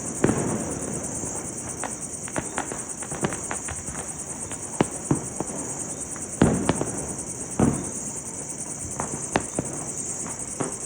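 Firecrackers going off at irregular intervals, sharp bangs with the loudest a little past the middle, over a steady high chirring of crickets.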